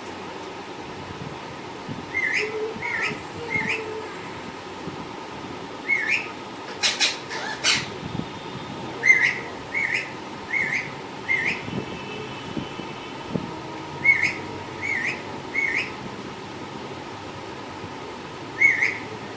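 Parrot giving short, hooked whistled chirps in runs of three or four, with a cluster of sharp clicks about seven seconds in, over a steady background hum.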